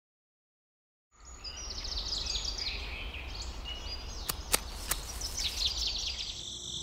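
Silence for about a second, then outdoor ambience of birds singing in short, repeated chirping trills over a low rumble, with a few sharp clicks a little past the middle.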